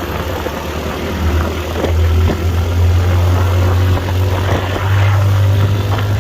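Motorcycle engine running while riding, a steady low hum that gets louder about two seconds in and again near five seconds, under a rushing noise.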